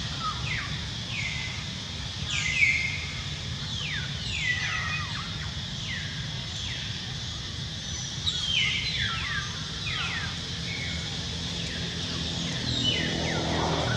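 Birds chirping: many short calls that each drop in pitch, repeated and overlapping, over a steady low rumble of background noise.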